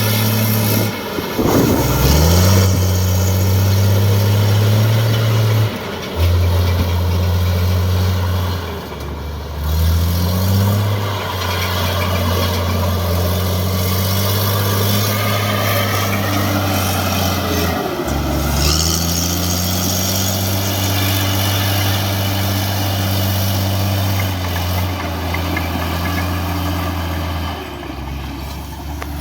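Heavy construction machine's diesel engine running steadily. It dips briefly three times, about two, ten and eighteen seconds in, and each time rises in pitch as it is throttled up again.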